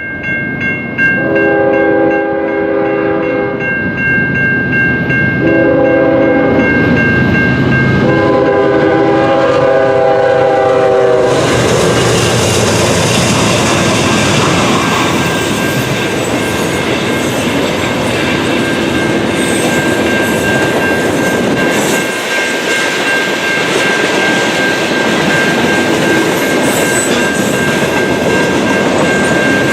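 Diesel locomotive horn sounding three blasts, long, short, long, as a train approaches, then the train rumbling and clattering past at speed. A steady high ringing tone runs underneath throughout.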